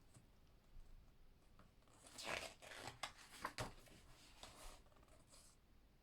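Pages of a book being turned: a few soft paper rustles and flicks, loudest about two to four seconds in.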